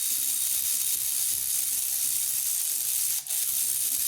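A steady high-pitched hiss, broken by a brief dropout about three seconds in.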